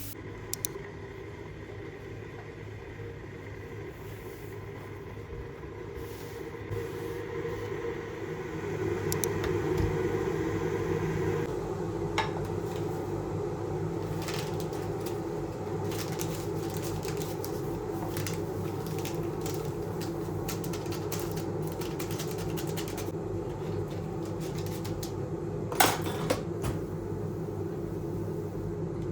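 Steady motor hum of a kitchen appliance running, a thin higher tone over it stopping about a third of the way through, with scattered light clicks and clatter of kitchen things and one sharper knock near the end.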